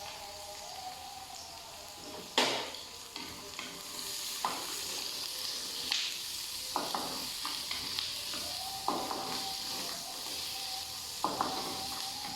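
Sliced onions sizzling in hot oil in a pan, stirred with a utensil that knocks and scrapes against the pan several times, the loudest knock about two seconds in.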